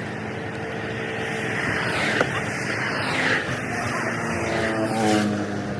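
Truck engine running, its pitch rising near the end as it is revved, with a single sharp click about two seconds in.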